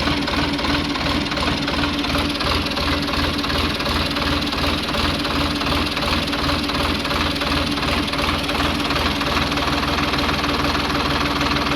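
An engine idling steadily, with a regular pulsing knock under a constant hum.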